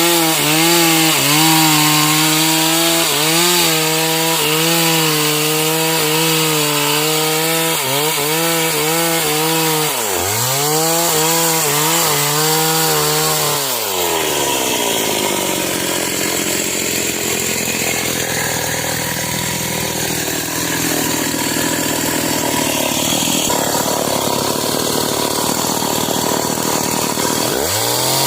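Stihl MS 381 two-stroke chainsaw running at full throttle, its pitch sagging and recovering as the chain bogs in the cut. About halfway through it drops to idle, then revs back up near the end.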